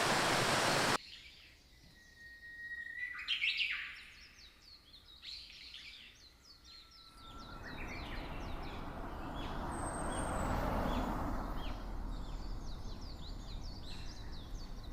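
Small birds chirping: many short, repeated calls. For about the first second, a loud steady rush of falling water is heard, and it cuts off suddenly. From about halfway through, a softer steady rush of water sits under the birdsong.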